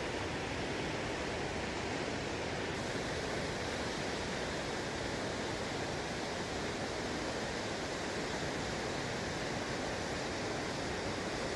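Waterfall's water rushing steadily, an even noise with no break.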